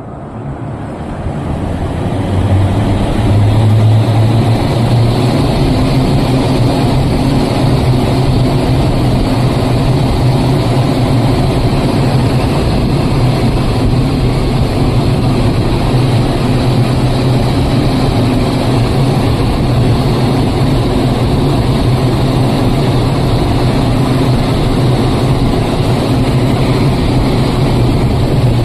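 EC (electronically commutated) fan running up over the first couple of seconds, then running steadily with a loud low hum and rushing air noise: the abnormal noise the fan is being checked for.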